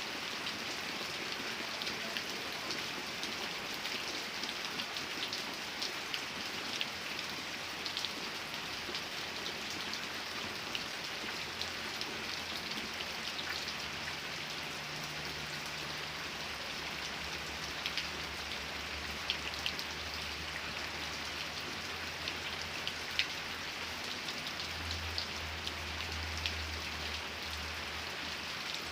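Steady rain falling, a constant hiss with individual drops ticking sharply here and there. About halfway through a faint low rumble joins in under the rain and grows a little stronger near the end.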